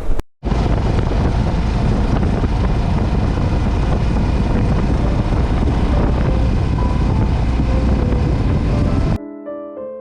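Riding noise on a moving motorcycle: heavy wind buffeting the microphone over the running engine and road. About nine seconds in it cuts out and background music starts.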